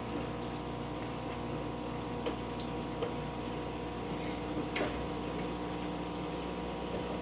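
Steady hum of an aquarium pump with water running, and a few faint knocks about two, three and five seconds in.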